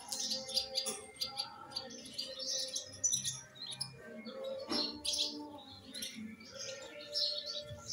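Small birds chirping and twittering in quick, repeated high calls, with a brief knock about three quarters of the way through.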